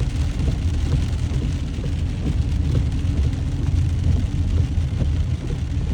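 Steady low road and engine rumble inside a moving car's cabin, with rain hitting the car.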